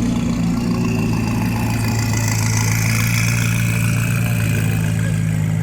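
A car engine idling steadily with a deep, even drone.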